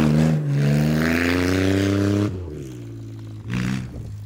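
Subaru Forester's flat-four engine revving hard, its pitch climbing steadily. About two seconds in it drops away sharply to a lower, quieter run, with a couple of short blips of throttle near the end.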